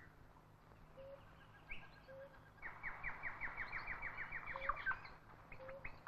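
Tropical forest bird calls: a rapid trill of quick falling notes, about eight a second, lasting a little over two seconds from just before the middle, with scattered short, low whistled notes around it.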